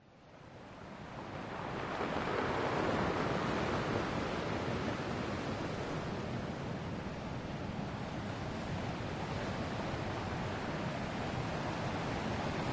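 Ocean waves washing onto a shore, a steady rushing noise that fades in over the first couple of seconds and swells about three seconds in.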